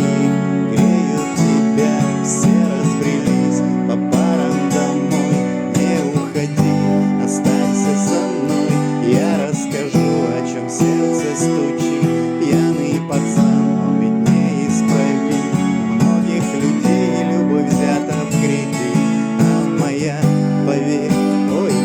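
Acoustic guitar strummed in a steady rhythm, playing the song's chords as an instrumental passage.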